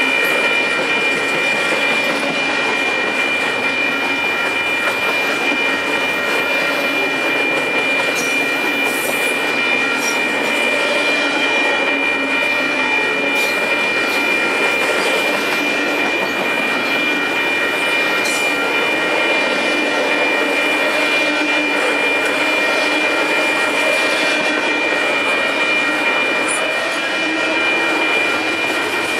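Double-stack intermodal train's well cars rolling past: a steady rolling rumble of steel wheels on rail, with a continuous high-pitched squeal from the wheels and a few faint clicks.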